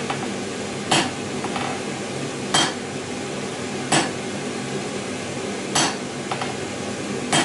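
Hammer blows on hot steel over the anvil, five sharp ringing strikes about every second and a half, with a couple of lighter taps between them, over a steady background rush.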